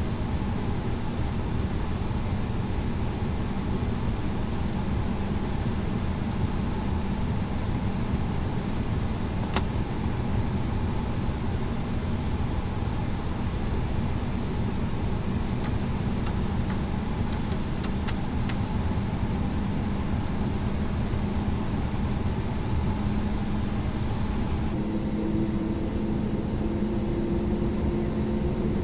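Airbus A320neo jet engines running steadily, a constant low rumble with a hum. A few faint clicks partway through, and in the last few seconds a humming tone slowly rises in pitch.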